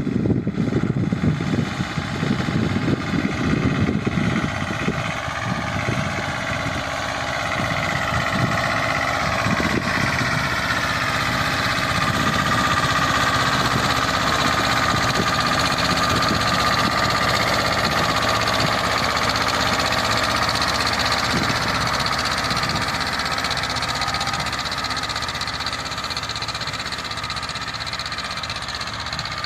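Escort 325 tractor's diesel engine running, working an 11-tine cultivator. A rough low rumble is strongest for the first several seconds, then the engine settles into a steadier, higher-pitched running note.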